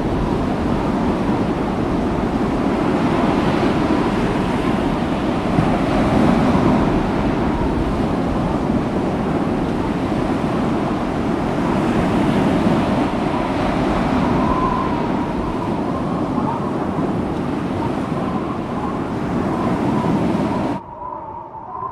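Steady rushing noise, with no clear pitch, that drops abruptly to a much quieter background near the end.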